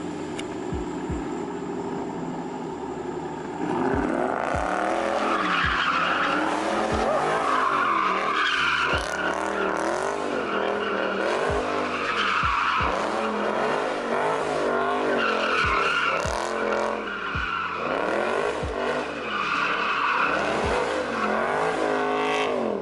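Car engine revving up and down about once a second while the car drifts, with its tyres squealing. It grows louder about four seconds in.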